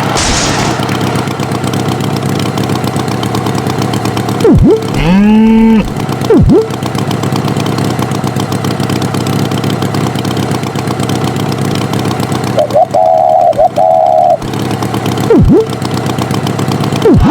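Cartoon tractor engine running steadily, with a string of short boing-like sound effects that dip sharply and spring back up in pitch, a rising glide about five seconds in, and a brief warbling tone near the end.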